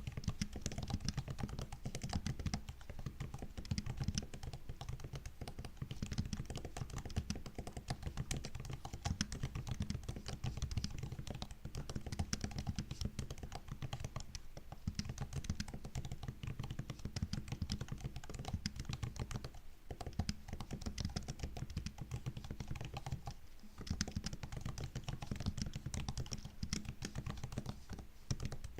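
Typing on a MacBook's laptop keyboard: a dense, quick stream of soft key clicks and taps, with brief pauses a few times.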